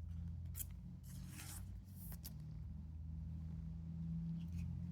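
One Piece Card Game trading cards being slid and shuffled against each other in the hand, giving a few short papery swishes over a steady low hum.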